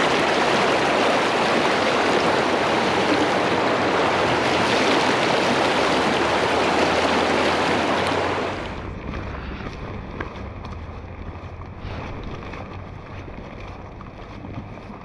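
Rushing river water, loud and close, a steady full rush; about eight and a half seconds in it suddenly drops to a quieter, duller rush.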